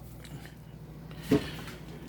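A single short knock about a second and a half in, over a faint steady low hum.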